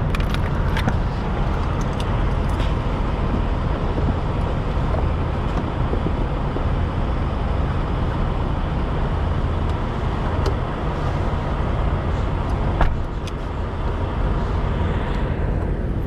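Steady low rumble of a semi truck's diesel engine heard from inside the cab, with one sharp knock about thirteen seconds in.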